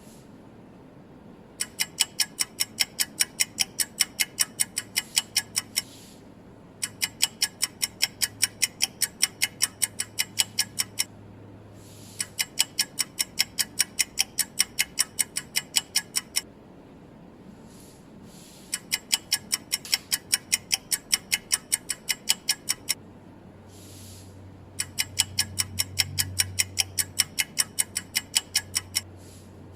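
Clock tick-tock sound effect: rapid, even ticks about four a second, in five runs of about four seconds each with short pauses between, like a countdown timer for each quiz question.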